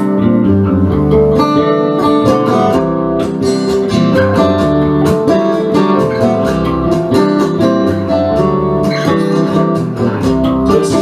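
Instrumental break of a song: guitar playing, strummed and plucked, with a steady rhythm and no singing.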